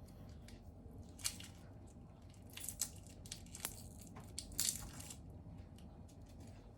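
Faint scattered crackling and rustling from food and kitchen items being handled, with a sharp click about three and a half seconds in.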